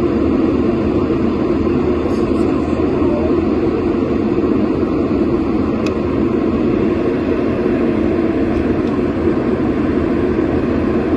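Steady cabin noise of an airliner in flight: an even rumble and rush of engines and airflow, unchanging in level.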